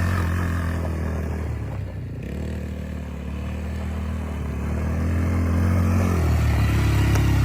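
Small off-road motorbike engine running at a steady speed, fading somewhat and then growing louder again near the end as it comes back closer.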